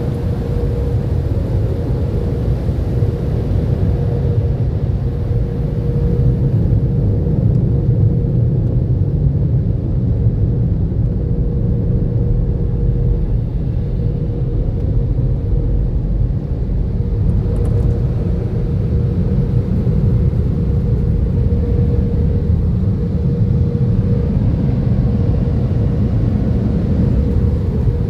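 AVW car wash tunnel equipment running: a steady low rumble with a constant mid-pitched hum.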